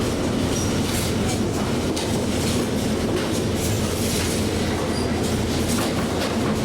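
A train running past: a steady rumble and hiss of wheels on rail, with many irregular clicks.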